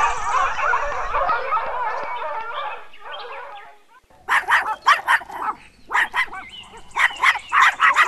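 A team of harnessed sled dogs yelping and whining all at once in an excited, overlapping chorus that fades out about three to four seconds in. After a short gap comes a run of short, sharp, high-pitched yaps in quick clusters.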